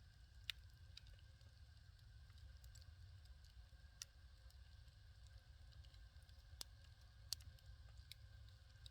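Firewood fire burning: sparse, sharp crackles and pops from the burning logs, about six in all, over a faint steady low rumble.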